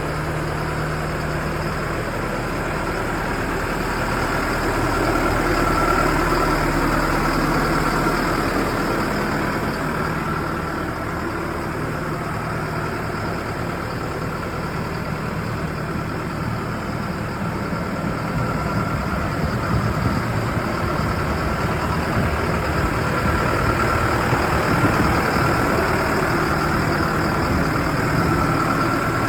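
XCMG XC870K backhoe loader's diesel engine running steadily, swelling a little louder twice.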